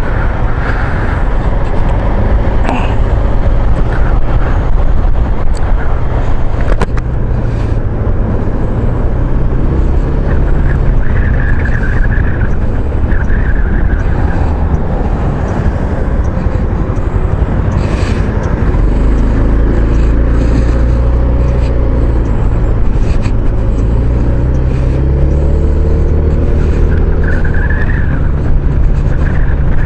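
Wind rushing and buffeting over a bare action camera mounted on a moving maxi-scooter, with the scooter's engine running underneath. In the second half the engine note climbs in pitch a few times as the scooter speeds up.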